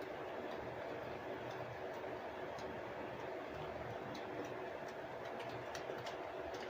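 Steady background hum with scattered faint ticks and clicks.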